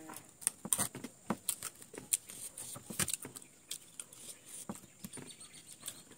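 Close-up eating sounds: raw carrot and cucumber slices being bitten and chewed, a run of irregular crisp crunches and clicks.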